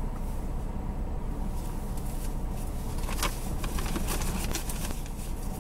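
Steady low hum of a car idling in the cold, heard from inside the cabin while it warms up. Over it are light rustles and taps from a paper greeting card being handled.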